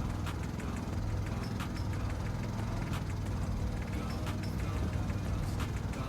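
Long-tail boat engine running steadily with a low hum, with scattered clicks over it.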